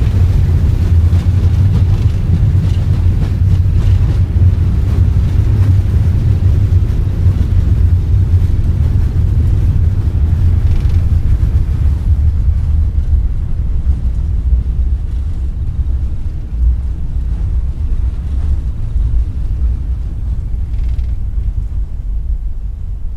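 Boeing 737 MAX on its landing rollout just after touchdown: a loud, low roar of its CFM LEAP-1B engines in reverse thrust and the wheels on the runway. It gradually fades over the second half as the aircraft slows.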